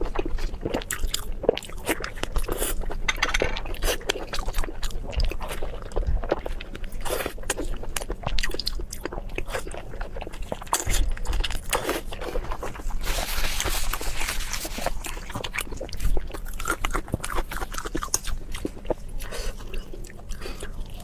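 Close-miked biting and chewing of blood sausage: a dense run of wet mouth clicks and crunches, with a hissier crunchy stretch about two-thirds of the way through.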